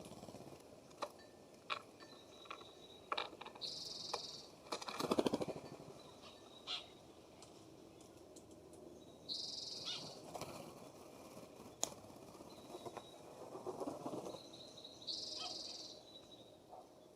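Birds at a feeder: a short, harsh, high call repeated three times about five to six seconds apart, over scattered sharp clicks and taps of birds landing and pecking, with two brief flurries of wingbeats.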